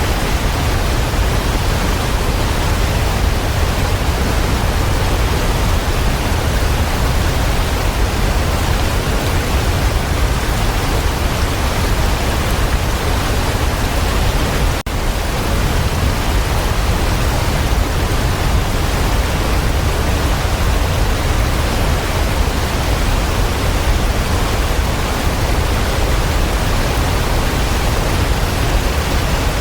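Waterfall: a steady, unbroken rush of falling water, with one momentary dip in level about halfway through.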